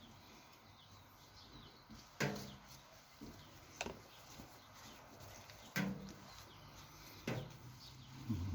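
Five short, sharp clicks and knocks about one and a half seconds apart, as small suspension-fork parts are taken off and set down one by one.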